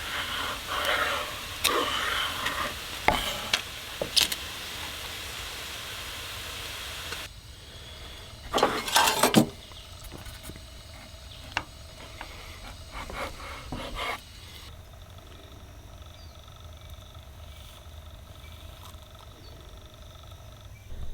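Vegan bacon sizzling in a frying pan, with sharp clicks of a utensil against the pan. About seven seconds in the sizzle cuts off, followed by a few loud knocks and scattered handling clatter.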